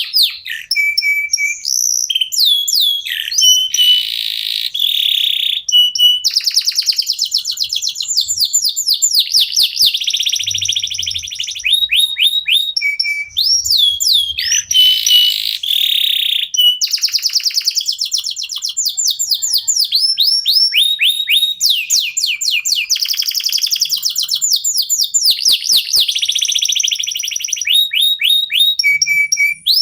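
Domestic canaries singing continuously: fast trills, runs of quick falling notes and buzzy rolls, one phrase after another without a break.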